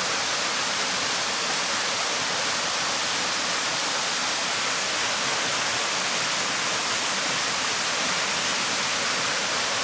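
Waterfall rushing, a steady, unbroken roar of falling water with most of its energy in the hiss range.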